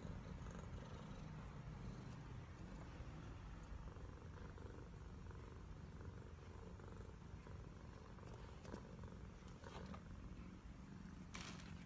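Domestic cat purring steadily in a low, continuous rumble, with a few faint clicks or rustles near the end.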